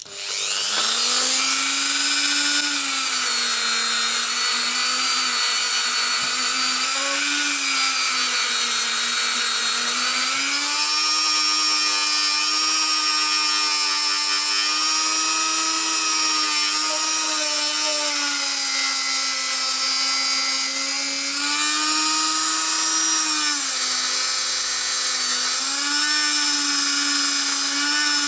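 Electric polishing tool spinning up and then running with a steady whine as it polishes a metal shock absorber cap. Its pitch dips and recovers again and again as the tool is pressed against the part.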